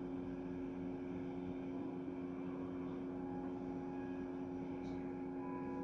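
Steady low drone of held tones from a film soundtrack, with fainter higher tones joining about halfway through and again near the end.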